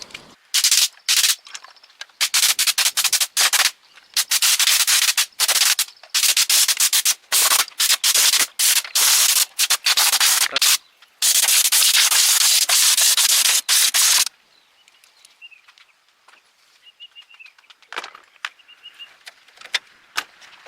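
Hissing spray of compressed air in short on-off bursts, loud and repeated for about the first fourteen seconds, then stopping. After that there are only faint chirps and one light knock.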